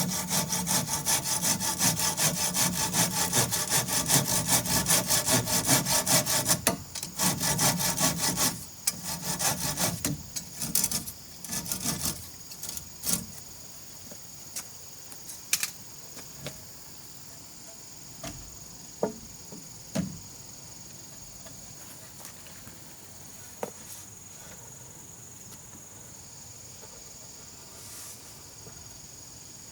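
Wood being cut with a hand saw in quick, even strokes for about nine seconds; the sawing pauses briefly around seven seconds in, then stops. After that, a few light knocks and a steady high chirring of insects.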